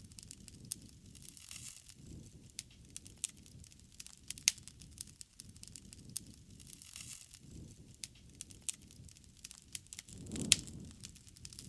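Wood fire burning, with irregular crackles and sharp pops over a low, uneven rush of flame, and one louder pop near the end.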